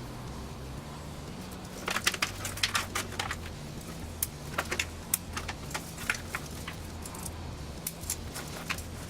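Irregular sharp clicks and taps of small hard parts being handled and fitted together, starting about two seconds in, over a low steady hum.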